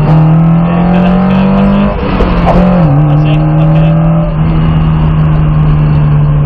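Lotus Cortina's four-cylinder twin-cam engine running under load. Its note climbs slowly, breaks off about two seconds in, then settles a little lower and holds steady.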